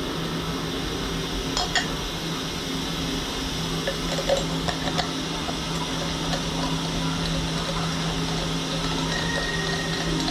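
Haas VF-2YT CNC vertical mill running, its spindle driving a 1/4-inch two-flute ball end mill through hard-anodized 6061 aluminium with a steady hum and hiss. A few light metallic clinks come about two seconds in and again between four and five seconds in.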